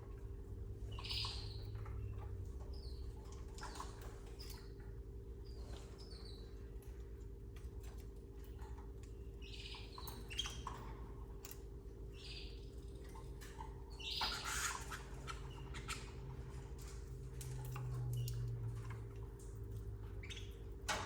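Canaries giving short, scattered chirps, with small clicks and a louder scratchy burst about two-thirds of the way through, over a steady low electrical hum.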